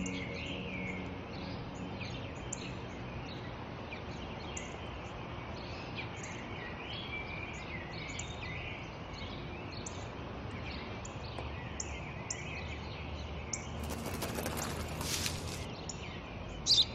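Small birds chirping and tweeting, many short calls one after another over a steady outdoor background. About fourteen seconds in, a rustle lasts over a second, and a louder single chirp comes near the end.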